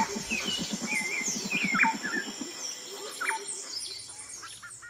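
Birdsong: several birds chirping and whistling, with quick downward-sliding whistles, over a rapid low pulsing during the first half. It cuts off suddenly at the end.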